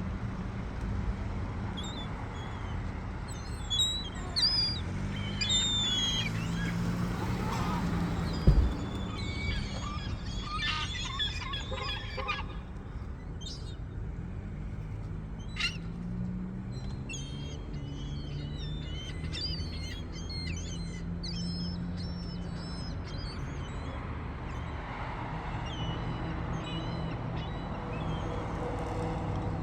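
Gulls calling, many short overlapping cries through the whole stretch, over a low steady hum, with a single thump about eight seconds in.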